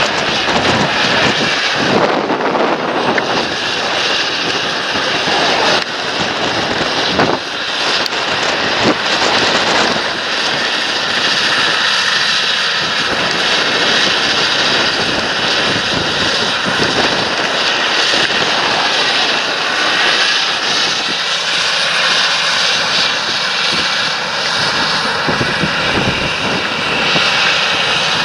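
Large John Deere tractor's diesel engine running steadily under load while working the field, with a steady high whine above the engine noise.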